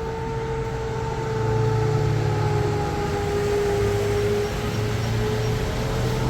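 A steady low hum of a running motor with a held whining tone over it, getting slightly louder about a second and a half in.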